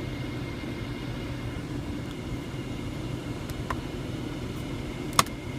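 Steady low hum inside a car cabin with the vehicle sitting at idle. Two short clicks from the overhead console's light switches, one about three and a half seconds in and a sharper one about five seconds in.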